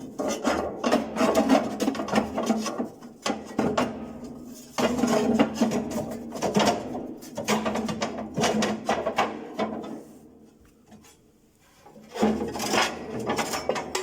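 Thick steel liner plate scraping, rubbing and knocking against the inside of a wood-stove firebox as it is worked into place along the side wall. The sound comes in three spells, with a short quiet pause just before 5 seconds in and a longer one around ten seconds in.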